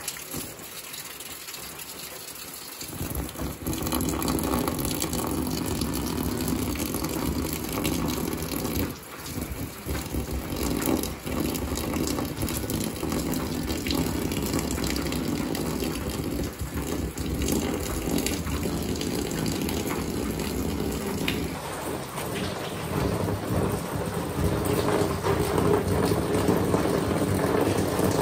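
Heavy rain pouring down, a steady dense hiss of a downpour. It gets louder a few seconds in and changes character again about three quarters of the way through.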